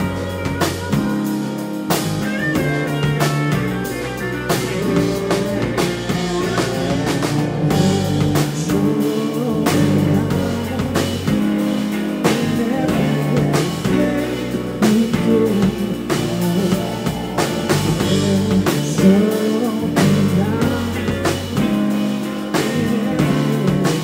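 Live rock band playing an instrumental passage: drum kit keeping a steady beat under electric guitar and bass.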